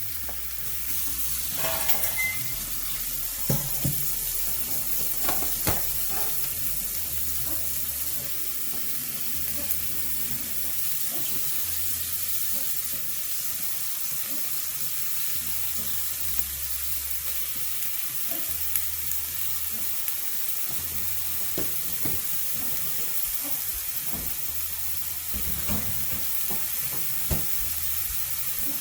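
Kitchen tap running steadily into the sink while mixed lettuce is rinsed under it, turned on about a second in, with a few light knocks of handling.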